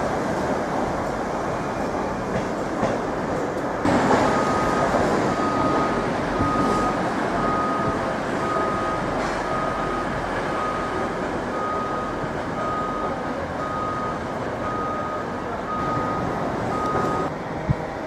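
A train running or standing at a station platform, a steady rumble that grows louder about four seconds in. Over it, a high electronic warning beep repeats about once a second until near the end.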